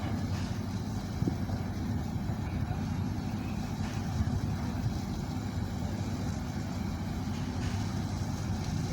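Steady low rumble of a ship's engines, running evenly without change.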